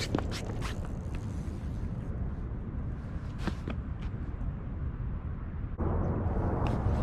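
Steady low outdoor rumble with a scatter of short, light clicks. It grows louder about six seconds in.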